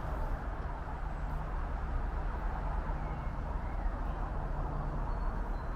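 Steady outdoor background noise with a low rumble, and a few faint bird chirps above it.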